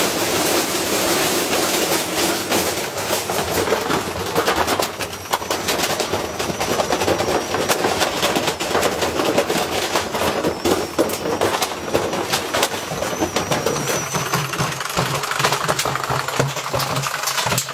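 Washing machine spinning with a heavy iron weight inside, clattering and banging in a rapid, continuous rattle as it shakes its casing apart. A low motor hum comes up near the end.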